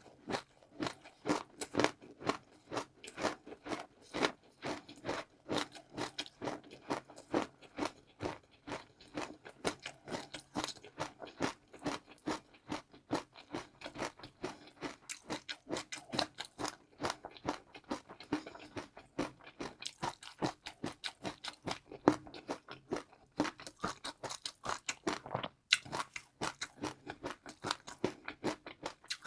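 Close-up sound of a person chewing crunchy food, with rapid crisp crunches at about three a second, in steady bursts of chewing.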